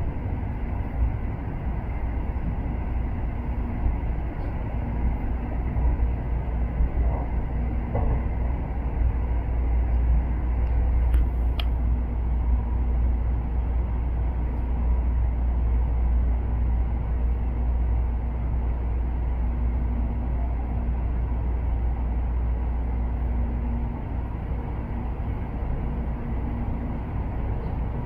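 Shinkansen bullet train running, heard from inside a carriage: a steady, heavy low rumble of running noise with a faint hum. A brief high tone sounds about 11 seconds in, and the rumble eases slightly near the end.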